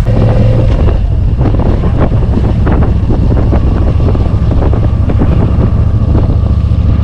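Yamaha motorcycle running at road speed with heavy wind buffeting on the microphone.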